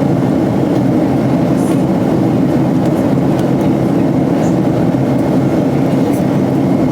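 Steady, loud rumbling of a moving vehicle heard from inside, with a few faint clicks.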